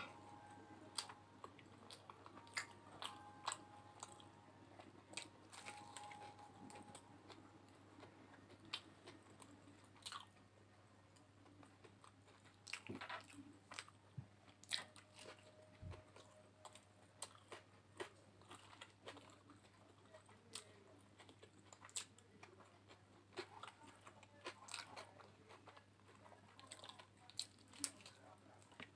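A person chewing and biting into Mughlai paratha, fried flaky egg-stuffed bread: scattered sharp little crunches and mouth clicks, faint overall.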